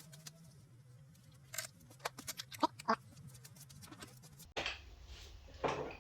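Scattered sharp clicks and knocks of hand-tool work on an engine, over a low steady hum; the background changes abruptly about four and a half seconds in.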